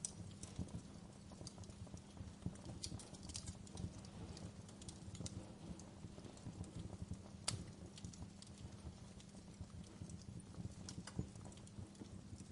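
Wood fire crackling: irregular sharp pops and snaps over a low steady rumble of the flames, with one louder pop a little past halfway.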